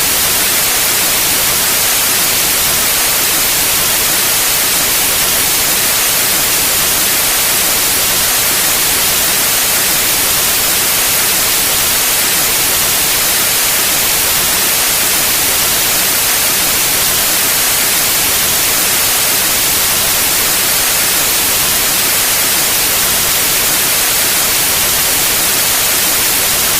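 Pure white noise: a steady, even hiss with no tones or changes.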